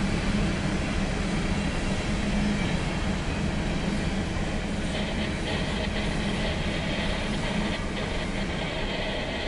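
Empty coal train's hopper cars rolling past, a steady rumble with scattered clicks of wheels over rail joints about halfway through, heard from inside a vehicle.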